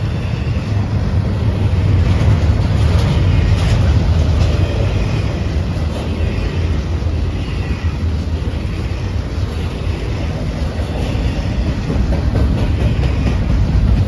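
Train rolling past at close range: a steady, loud, low rumble of wheels on rail, with faint clicks over the rail joints.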